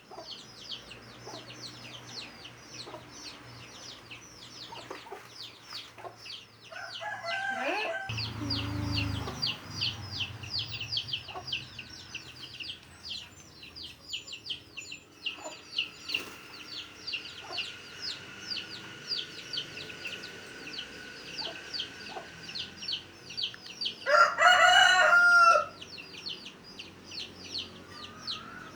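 Free-range village chickens: a continuous fast, high-pitched peeping, like chicks, and clucking, with a call that falls in pitch about seven seconds in. A rooster crows once, loudly, near the end.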